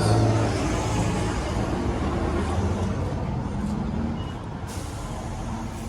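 Heavy truck engine running, a steady rumble that slowly fades.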